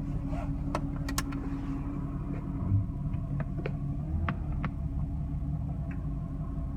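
A 2002 Porsche 996 cabriolet's flat-six running with a steady low rumble, heard from inside the car, with irregular sharp clicks and ticks over it. These clicks are most likely the strange noise the owner is chasing.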